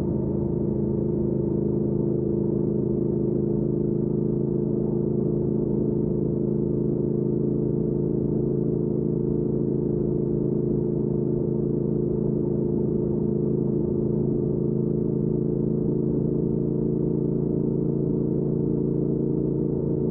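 2019 Triumph Speed Twin's 1200 cc parallel-twin engine through a Weslake Shorty Pro aftermarket exhaust, running at a steady cruising speed with an even, unchanging note.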